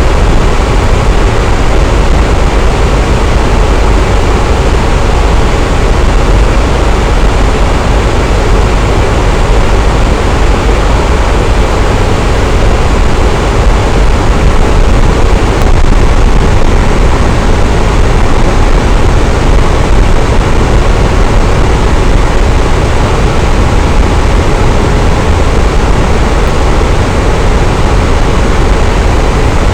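Electric fan running steadily: an even, loud whooshing of moving air with a deep low rumble, unchanging throughout.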